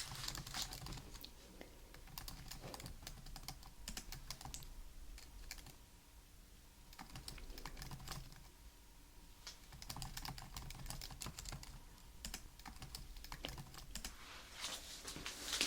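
Soft typing on a computer keyboard: a long, irregular run of light key clicks.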